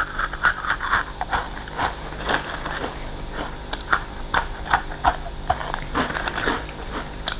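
Crisp, biscuit-like potato stick snacks being bitten and chewed close to the microphone: a quick, irregular run of sharp crunches.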